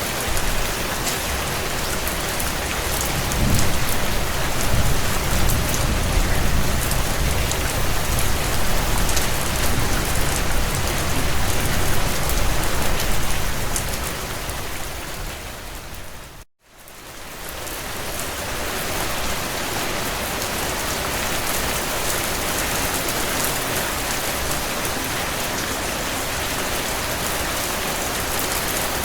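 Heavy rain falling on a tin roof, a steady dense patter. A low rumble swells under it for several seconds. About halfway through, the rain fades out to a moment of silence and quickly fades back in.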